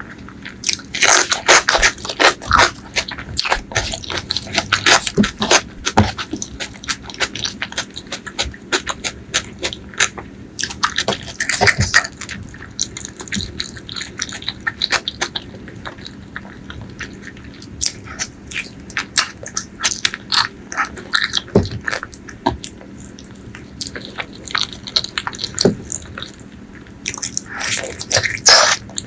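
Close-miked eating of spicy pork leg curry with rice: wet chewing and lip-smacking, with many sharp clicks that come in louder clusters several times, over a faint steady hum.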